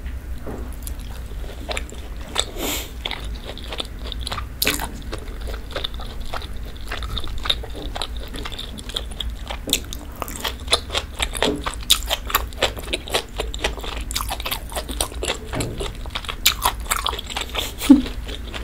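Close-miked eating: chewing a sauce-dipped piece of beef steak, then biting into and chewing a roasted asparagus spear. Many small crunches and wet mouth clicks, thickest in the second half.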